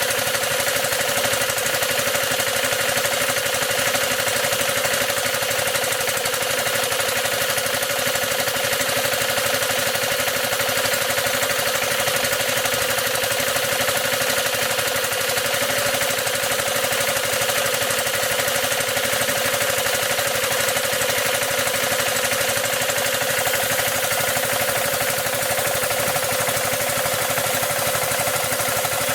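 Maruyama MS613 engine-driven power sprayer running steadily, with a fast rattling knock (カタカタ) that comes from the pump's crankcase rather than the engine: the abnormal noise of the pump.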